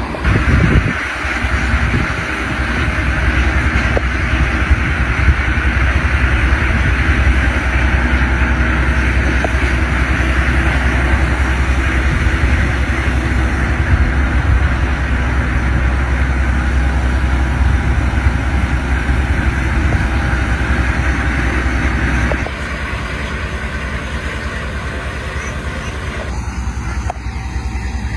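A motor vehicle running steadily: a low engine rumble under a broad noise. Both drop suddenly to a lower level about 22 seconds in.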